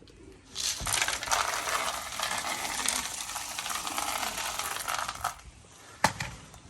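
Dry pigeon feed being poured into a feeder: a dense rattle of hard grains lasting about five seconds, then a single knock near the end.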